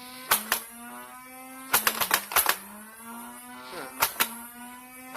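Flywheel motors of a Nerf Modulus Evader blaster whining steadily while darts are fired in sharp clacks: two near the start, a quick string of about five around two seconds in, two more about four seconds in, and one at the end. The whine's pitch dips briefly as each dart takes speed off the flywheels.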